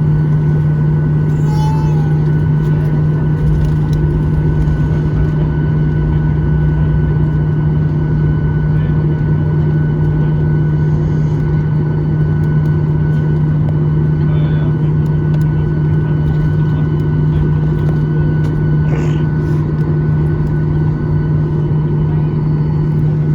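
Boeing 737-800 cabin noise heard from a window seat: a steady engine hum with a strong low drone and a constant rush of air, holding level without spooling up.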